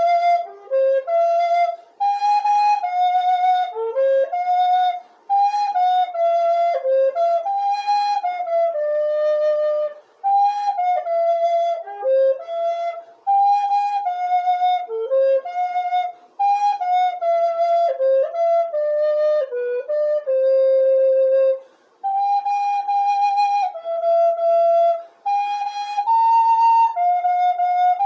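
Solo flute playing a slow hymn melody in held, legato notes. Its phrases are separated by short breath pauses every few seconds.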